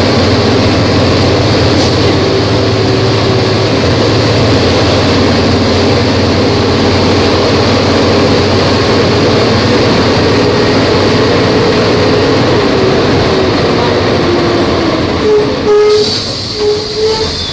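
Volvo B270F bus engine running steadily under way, a low drone with a whine that slowly falls in pitch. About two seconds before the end the engine note drops off and a few short higher tones sound.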